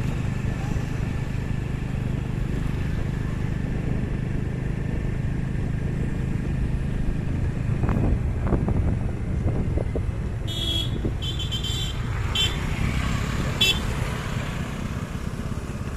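Road traffic with vehicle engines running steadily, and several short high-pitched toots from a horn or beeper in the last third.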